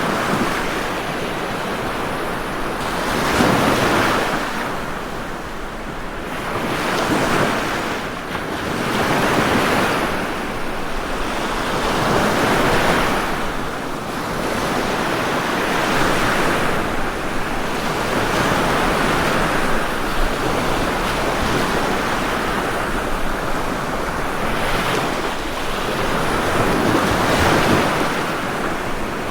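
Ocean waves breaking and washing on a shore, one surge after another every few seconds over a constant rushing hiss.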